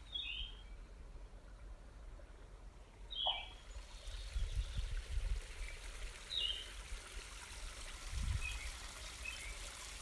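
A bird chirping now and then: short, high, falling notes a few seconds apart over a faint steady hiss, with a couple of soft low bumps.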